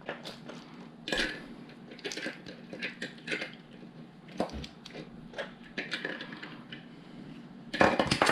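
Plastic LEGO pieces clicking and clattering as they are handled and sorted, in irregular short taps with a louder rattle near the end.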